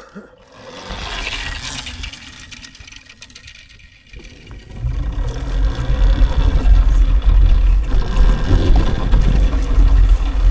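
Riding noise of an electric dirt bike on a dirt road: an uneven rumble and rattle with wind on the microphone. A brief hiss comes about a second in, and the rumble grows much louder from about five seconds in as the bike picks up speed.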